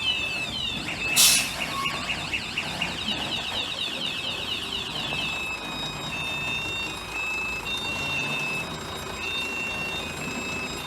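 Truck reversing alarm sounding as the tractor-trailer backs up: rapid falling chirps that turn into a plainer on-off beep about halfway, over the low running of the truck, with a short sharp hiss about a second in.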